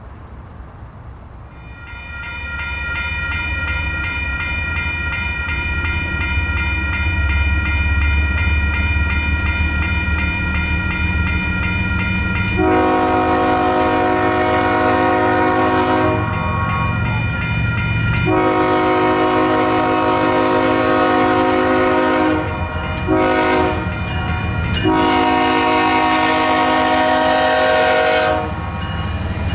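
Diesel locomotive horn sounding the grade-crossing pattern: two long blasts, a short one, then a long one, starting about 13 seconds in. Under it the locomotive's engine rumbles, and before the horn a high steady ringing tone is heard.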